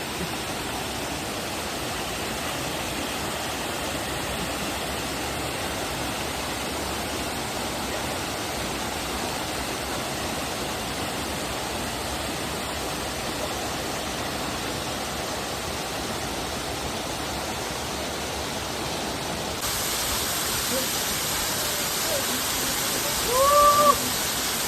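Waterfall rushing steadily, an even roar of falling water that grows a little louder and hissier near the end. A short rising-and-falling voice-like call sounds once just before the end.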